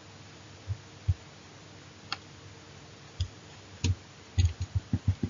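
Irregular light clicks and taps with a dull low thud to each, a handful spread out and then several in quick succession near the end.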